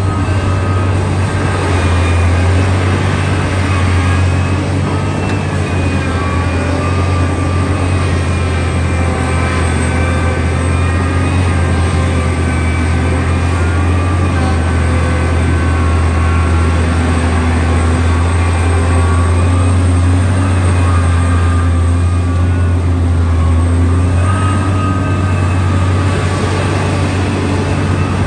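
Diesel engine of heavy earth-moving machinery running steadily: a loud, deep, continuous drone with faint higher whining tones over it.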